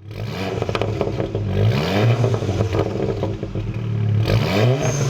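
Volkswagen MK7 GTI's turbocharged 2.0-litre four-cylinder running through an XFORCE Varex valved exhaust, revved twice with the pitch rising, about two seconds in and again near the end, between steady running.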